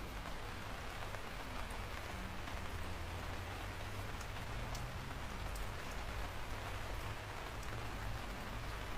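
Steady rain falling, an even hiss with scattered sharper ticks of single drops striking.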